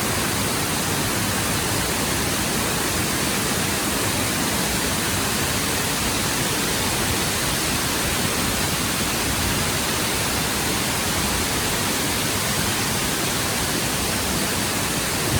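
Fukuroda Falls' water rushing steadily, an even, unbroken roar.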